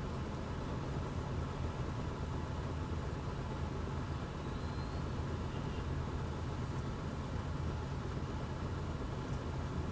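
A steady low engine rumble, like an engine idling, without change.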